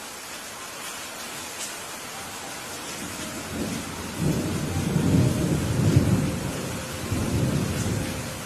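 Steady rain with a roll of thunder that builds about three seconds in, rumbles loudest in the middle and fades away near the end.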